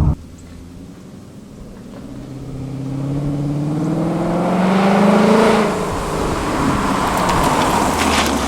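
A 2016 Mustang GT's 5.0 V8 through an X-Force Varex exhaust, accelerating. Its engine note climbs steadily and grows louder to a peak about five seconds in, then drops in pitch and settles at a lower steady note.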